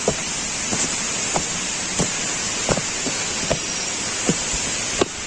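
Waterfall's steady rush of falling water, with light knocks about every three quarters of a second over it.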